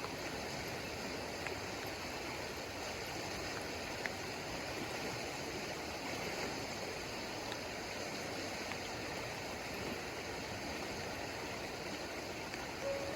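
Steady rushing water, rain and running stream water, an even hiss with no letup.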